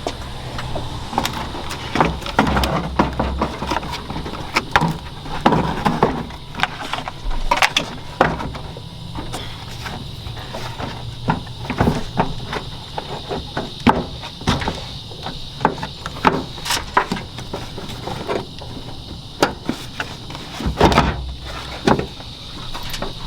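Irregular knocks, clicks and rattles of a trimmed plastic panel and small metal guard being handled and test-fitted under a truck's radiator.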